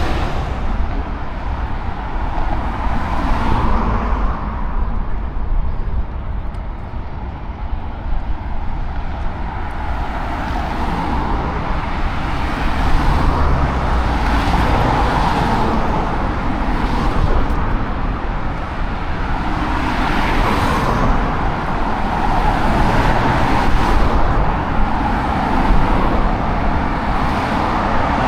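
Steady city road traffic: a continuous stream of cars going past, swelling each time a vehicle passes close.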